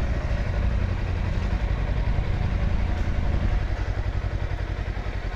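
Kawasaki Versys X300's parallel-twin engine running at low revs while the bike is being parked, with an even, pulsing beat.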